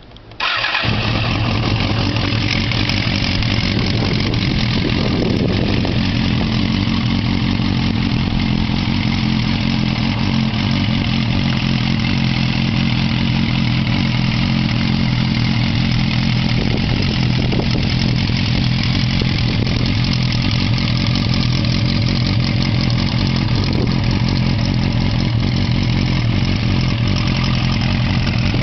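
Suzuki GSX250S Katana's four-cylinder engine, breathing through FCR carburettors and exhausting through a Yoshimura muffler, starts about half a second in and then idles steadily.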